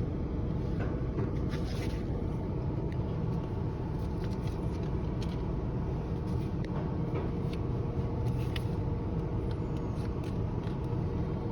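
Steady low rumble of a pickup truck idling in neutral, heard from inside the cab, with a few faint clicks.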